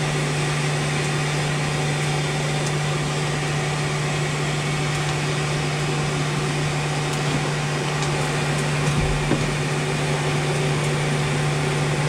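Blacksmith's forge running steadily: a constant blower hum with a rush of air, and a couple of faint knocks near the end.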